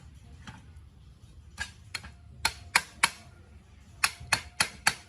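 A run of about ten sharp taps at irregular spacing, the loudest in two clusters near the middle and toward the end.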